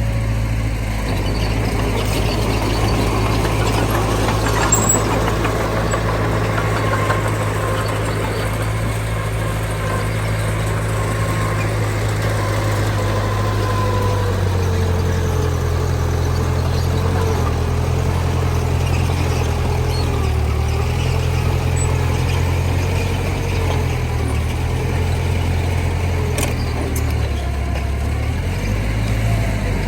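Diesel engines of earthmoving machines (a dump truck and a mini bulldozer) running steadily. The engine note shifts with changing load partway through and again near the end, over a faint wavering whine.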